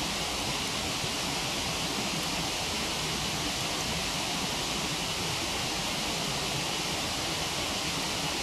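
Waterfall rushing steadily, an even hiss and rumble of falling water that never lets up.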